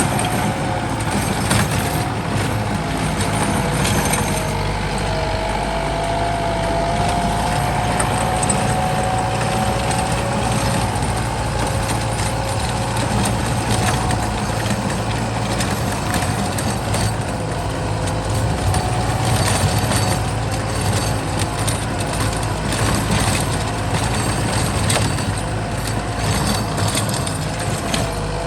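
Kubota M8540 tractor's diesel engine running steadily under load while plowing, with a wavering whine and scattered clicks and knocks.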